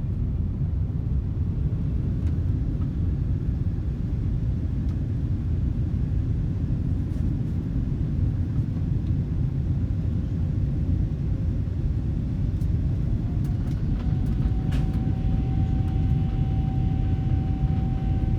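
Steady low cabin rumble of a Boeing 747-8 on final approach. About thirteen seconds in, a rising engine whine comes in and then holds steady as the GEnx engines spool up to go-around thrust for the aborted landing.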